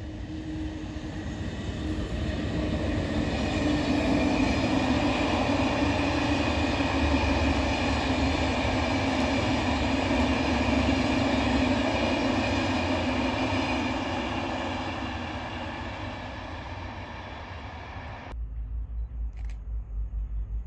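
Passenger train of SNCF Corail coaches passing on the line: the steady rush of wheels on rail builds over a few seconds, holds loud, then fades as the train draws away. Near the end it cuts abruptly to a low fluttering rumble.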